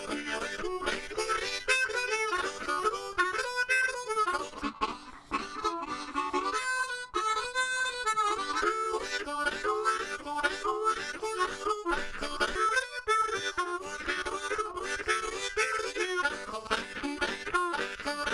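Harmonica music with guitar backing, a blues-style tune played throughout.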